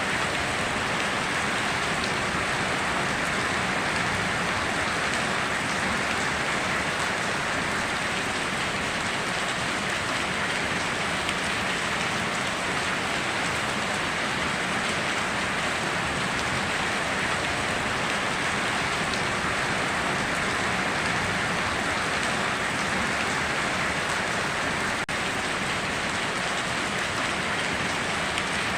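Steady downpour of rain, an even hiss of drops with no thunder, with a momentary dip about 25 seconds in.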